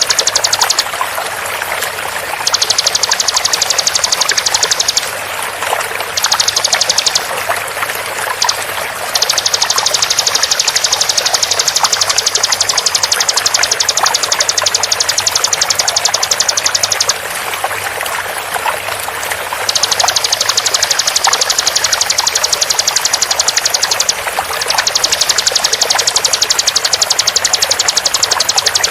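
Bar-winged prinia (ciblek) giving its rapid-fire 'tembakan' call: long runs of fast, high, evenly repeated notes broken by short pauses. Under it runs a steady sound of flowing water.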